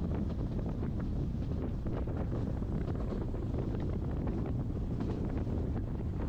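Passenger train running steadily along the track: a continuous low rumble of the running gear, with wind buffeting the microphone.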